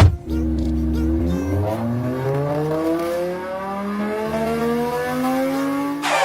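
Car engine accelerating hard, its pitch climbing steadily for several seconds. It opens with a sharp click, and a loud crash begins right at the end.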